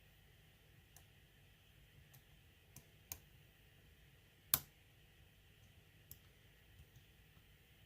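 Faint, scattered clicks from a lock pick and tension wrench working the pins of an ASSA six-pin euro cylinder with security pins. There are about seven light clicks, with one sharper click about four and a half seconds in.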